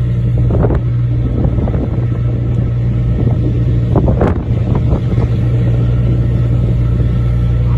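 Fishing boat's engine running with a steady low drone while the boat manoeuvres, wind buffeting the microphone, and a short knock about four seconds in.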